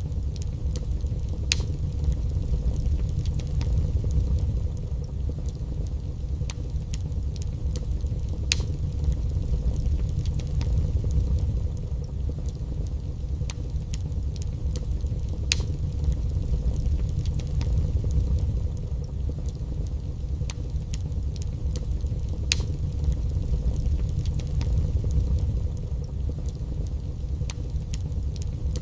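Wood fire burning in a fireplace: a steady low rumble of flames with scattered crackles and pops at irregular intervals, a few of them sharper.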